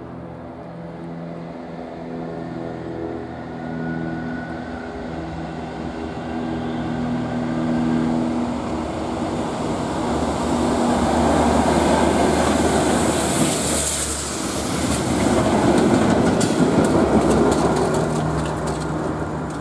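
A pair of Class 73 electro-diesel locomotives approaching and passing with a railhead treatment train of tank wagons. A pulsing engine note gives way about ten seconds in to the louder rumble of the passing train, with a hiss in the middle. Near the end the wheels clatter over the rail joints.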